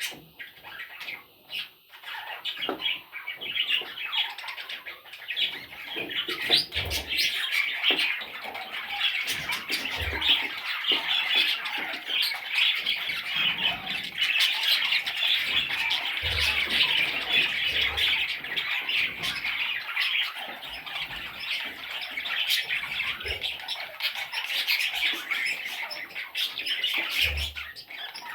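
A group of young budgerigars chattering and squawking together in a dense, continuous flock chatter that fills in after the first few seconds, with a few brief low thumps.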